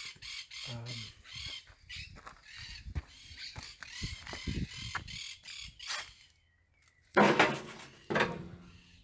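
Birds calling in a quick run of short, repeated high calls for about six seconds. Two louder short sounds follow, about seven and eight seconds in.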